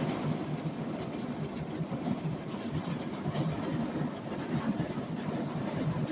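Tropical-storm wind rumbling steadily against a parked van, heard from inside, with a few faint ticks.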